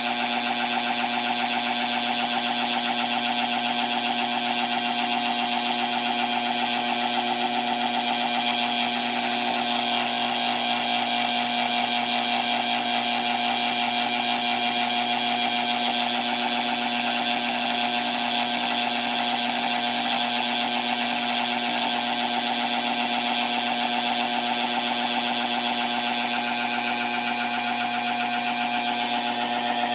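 Heat sealer for medical-grade paper pouches running with a steady, unchanging mechanical hum of fixed pitch: the abnormal noise its owner is showing.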